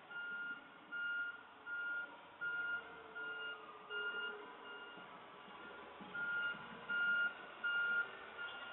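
Garbage truck's backup alarm beeping steadily as it reverses, roughly one beep every three-quarters of a second, with a brief pause about two-thirds of the way through, over the faint sound of the truck's engine.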